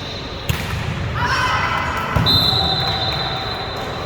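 Volleyball struck twice on a gym court, about half a second and two seconds in, with a player's voice calling out between the hits. A steady high-pitched tone sounds from about halfway through to the end.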